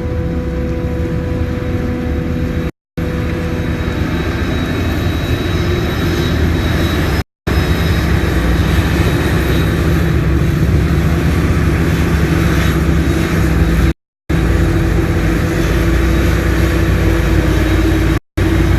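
Farm tractor engines running steadily. The sound cuts out abruptly for a moment four times.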